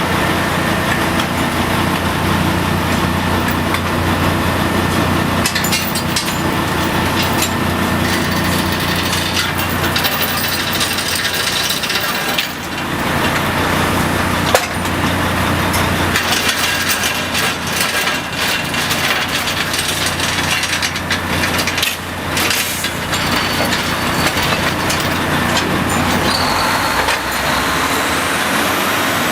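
Drilling rig machinery running steadily with a low engine hum, overlaid with repeated metallic knocks and clatter from work on the rig floor. One sharp hit comes about halfway through.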